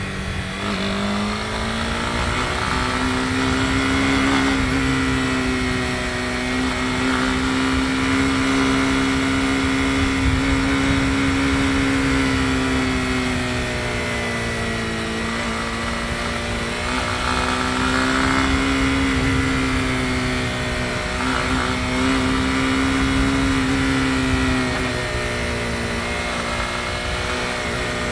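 Honda CB250R's single-cylinder engine running under way, its pitch rising and falling gently several times as the throttle is opened and eased off.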